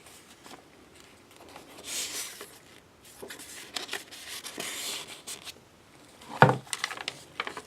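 Pages of a handmade paper journal being turned and handled: two soft paper swishes with light taps and rustles, then a single thump about six seconds in.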